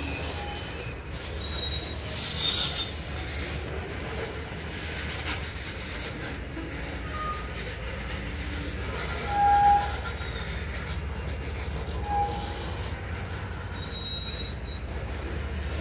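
Loaded ethanol tank cars of a freight train rolling past: a steady low rumble of wheels on rail, broken by a few short, high-pitched wheel squeals, the loudest about nine and a half seconds in.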